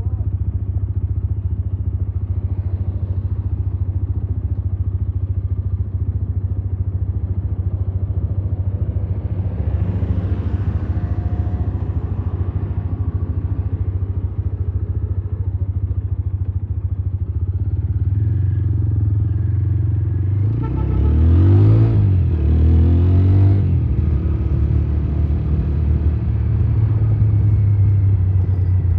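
Motorcycle engine running steadily while riding, with the engine pitch rising and getting louder about two-thirds of the way through as the revs climb, then settling back to a steady note.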